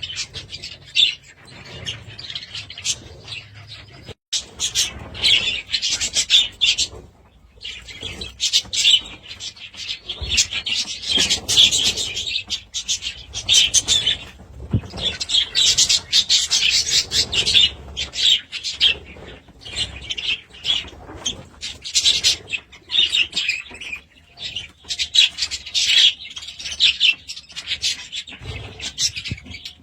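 A flock of budgerigars chattering and warbling, many fast chirps and twittering calls overlapping almost without pause.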